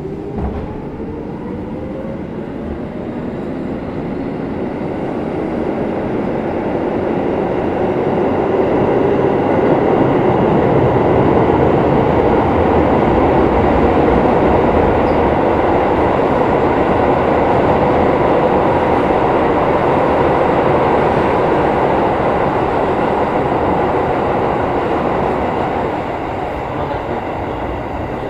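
Keikyu 1500 series field-chopper-controlled motor car running, heard from on board. Its traction motor whine rises in pitch at the start as it accelerates. A dense running noise then swells to a loud, steady level through the middle and eases off near the end.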